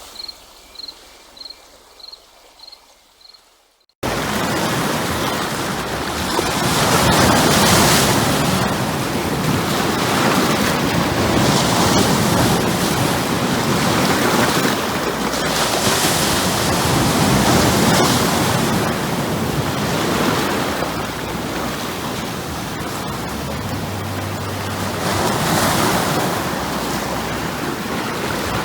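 A cricket chirping faintly, about three chirps a second, for the first few seconds. Then ocean surf cuts in suddenly and runs loud, with waves swelling and breaking every few seconds.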